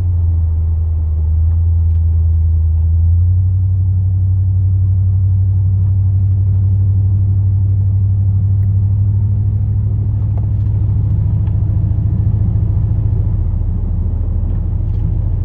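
Plow truck's 8.1-litre big-block gas V8 running steadily while driving, a continuous low drone.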